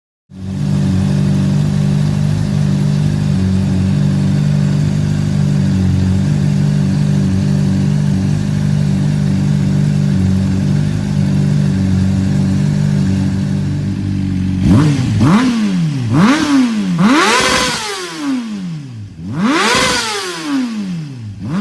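Honda CBR600RR inline-four sportbike running through a Yoshimura RS-5 exhaust. It idles steadily for about fourteen seconds, then the throttle is blipped four times, each rev rising and falling back.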